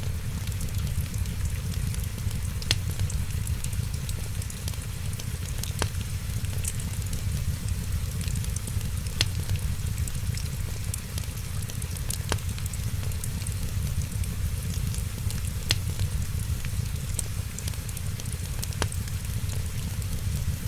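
Wood fire crackling, with sharp pops every second or two over a steady low rumble and hiss.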